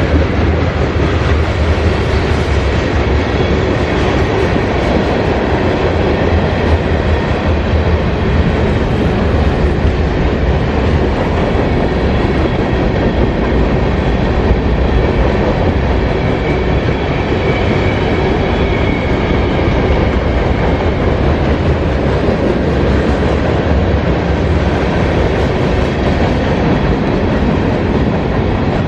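Mixed freight train rolling past, a loud, steady rumble of steel wheels on the rails, with a faint wheel squeal past the middle.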